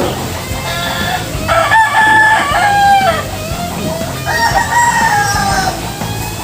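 Rooster crowing twice, each crow drawn out over about a second and a half.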